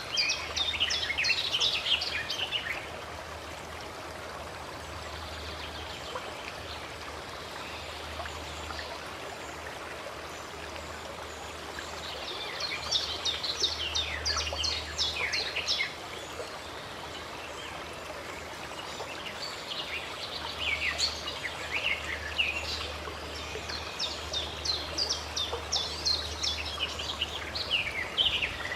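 Stream water running steadily, with songbirds singing in bursts of rapid chirps: at the start, again about halfway through, and more or less continuously through the last third.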